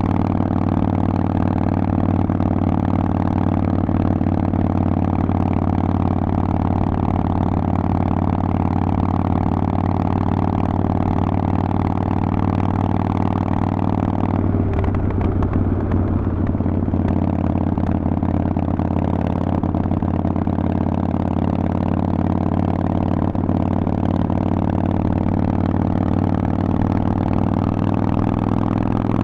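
Harley-Davidson Forty-Eight's air-cooled 1200 cc V-twin running through a Vance & Hines exhaust, a steady low engine note. About halfway through, the note briefly breaks and shifts.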